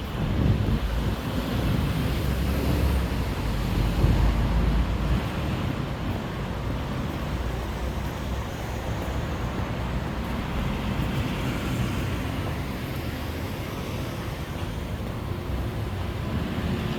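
City road traffic: a steady wash of passing vehicles, with a heavier low rumble of a vehicle going by in the first few seconds.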